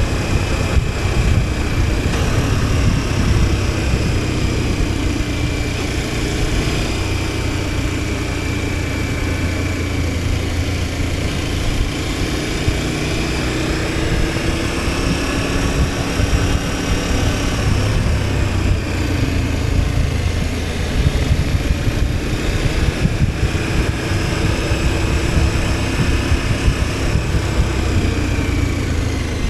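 KTM 1290 Super Adventure S V-twin engine running steadily on the move, its pitch drifting gently up and down, under a constant rush of wind noise.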